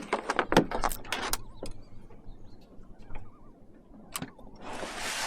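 A quick run of sharp clicks and knocks, then a single knock, then a short rushing swish near the end.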